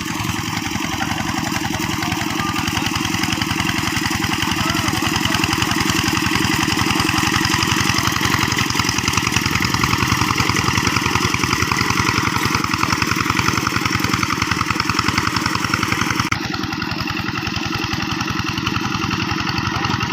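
Single-cylinder diesel engine of a two-wheel hand tractor running steadily with rapid, even firing pulses.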